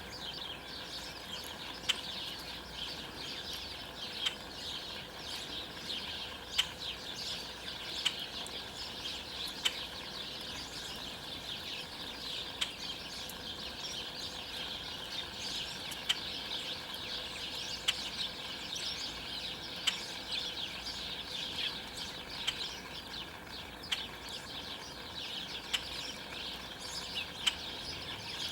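Many small songbirds chirping and chattering without a break. Sharp clicks come roughly every two seconds.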